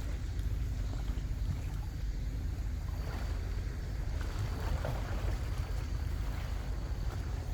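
Wind buffeting the microphone as a steady low rumble, over a faint wash of sea.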